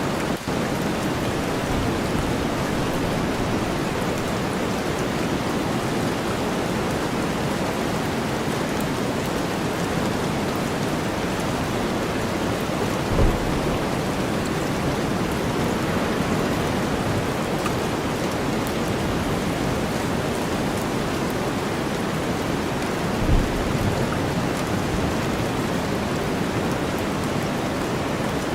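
Steady rain blended with deep white noise, an even, unbroken hiss. Two brief low thumps stand out, one about halfway through and one a few seconds before the end.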